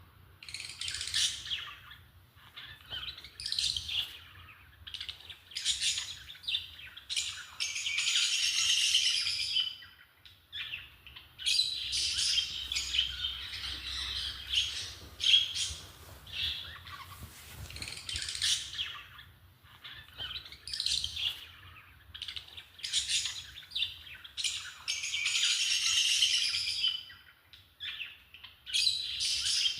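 Lovebirds chattering and chirping shrilly in repeated bouts of one to three seconds, squabbling among themselves.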